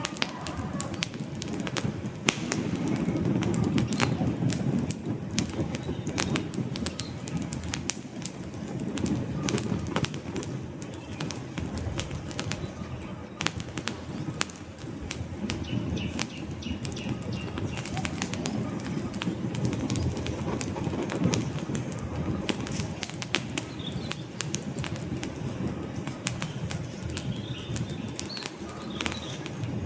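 Wood fire burning in a fireplace: logs crackling with frequent sharp, irregular pops over a low, steady rumble of flames.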